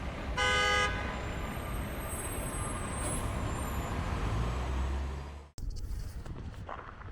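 A short car-horn toot about half a second in, over steady street traffic noise. The sound cuts off suddenly near the end, leaving quieter sound with light ticks.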